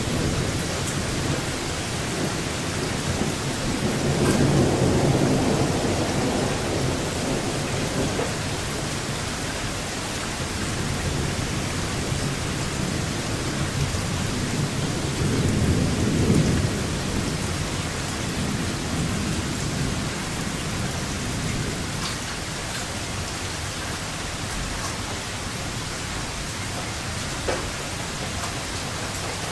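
Steady rain falling during a thunderstorm, with two low rolls of thunder: a longer one about four seconds in and another about fifteen seconds in.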